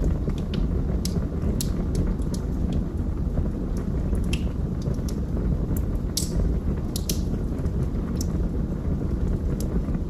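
Wood fire burning in a fireplace: a steady low roar of the flames with scattered sharp crackles and pops, the loudest a little after six seconds in and again around seven seconds.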